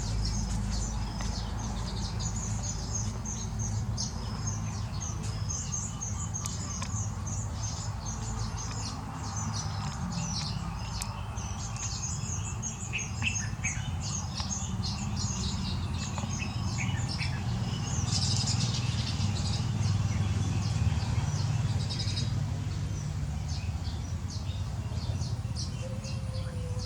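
A flock of small birds chirping continuously, with many short, high-pitched chirps overlapping, over a steady low rumble.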